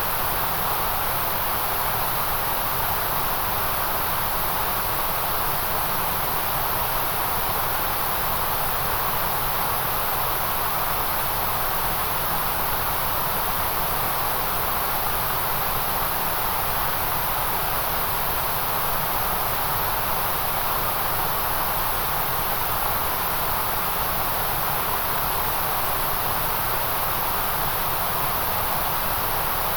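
Steady white noise: an unbroken hiss with a strong high top and a fuller band around the middle, not changing at all.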